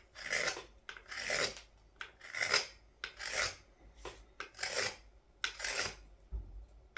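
A carving knife shaving wood from the inside of a wooden scoop in a series of short scraping cuts, about seven strokes, each about half a second long.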